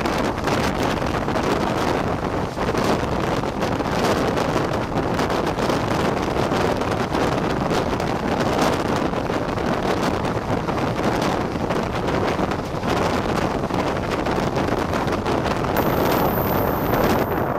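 Wind buffeting the microphone over the steady running noise of an express passenger train at speed, heard from an open coach door.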